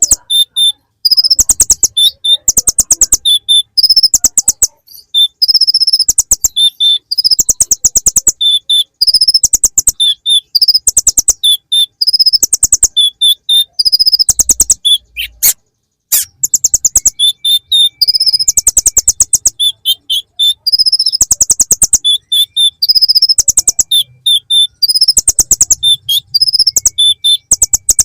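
Kolibri ninja sunbird singing a fast, high-pitched trilling song, with bursts of rapid repeated notes in the style of the bar-winged prinia (ciblek). There is one sharp click about halfway through.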